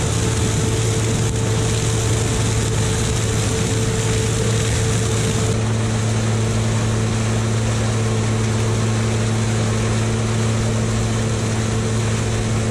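Heavy diesel harvest machinery running steadily at working speed during a corn harvest: a combine harvester or a big tractor, with a constant engine hum and a wide mechanical hiss. About five and a half seconds in the sound changes, with a new lower hum coming in and the high hiss easing.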